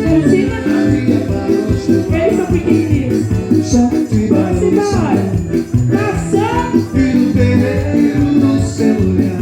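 Live band playing upbeat festa junina music with a steady, quick beat, a strong bass line and a shaker.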